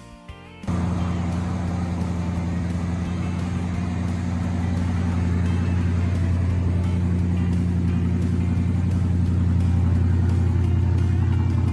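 Chevrolet V8 engine of a 1955 Mercury hot rod running steadily with a deep, even hum. It comes in abruptly less than a second in, replacing guitar music, and gets slightly louder as it goes.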